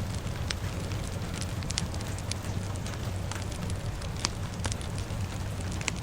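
Fire crackling, with irregular sharp pops and snaps over a steady hiss of rain and a low rumble.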